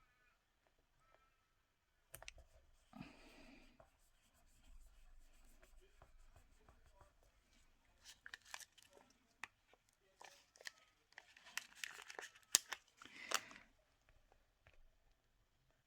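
Paper being handled and sorted through: faint rustling and crinkling with scattered light clicks and taps, busiest in the second half.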